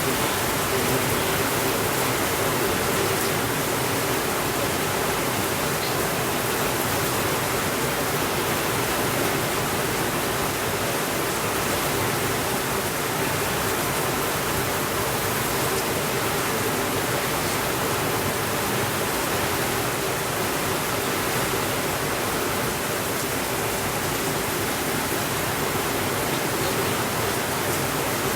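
Steady rainfall: an even, constant wash of rain with no thunder.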